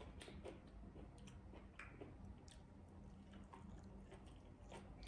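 Faint chewing of a mouthful of food eaten by hand, with small scattered wet mouth clicks.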